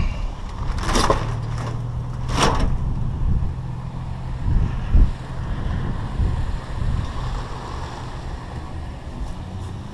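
A vehicle's engine running with a steady low hum. There are two sharp knocks in the first few seconds and a low thump about five seconds in.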